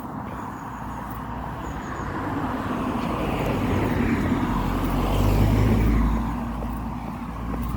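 A car driving past on the road, its engine and tyre noise growing louder to a peak about five to six seconds in and then fading.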